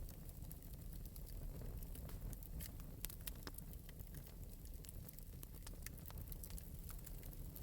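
Wood fire burning in an open metal fireplace, with irregular light crackles and pops over a soft low rumble.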